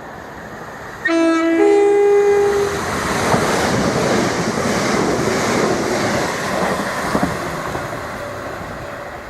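A train sounds a two-note horn about a second in, a lower note then a higher one. It then passes by with a loud rush of wheels on the rails and clickety-clack, fading slowly.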